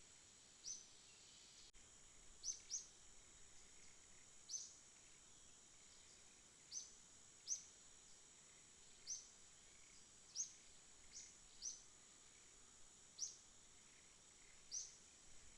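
Faint night ambience: a steady high-pitched insect drone, with short high chirps repeated at irregular intervals of about a second.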